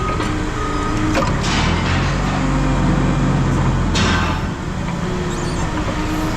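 An engine running steadily, dropping away about four and a half seconds in, with a few short bursts of scraping or clattering noise.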